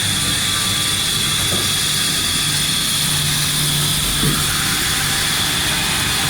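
Machinery running steadily: a constant high-pitched whine over a low hum.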